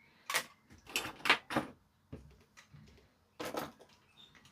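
Sharp clicks and knocks, about half a dozen at uneven intervals, as a part is handled and fitted back into the amplifier's chassis.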